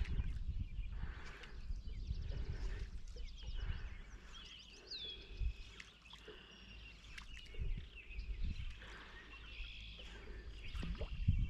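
Songbirds singing in short, high chirps, sweeping calls and a brief trill, over a low rumble that is strongest in the first few seconds.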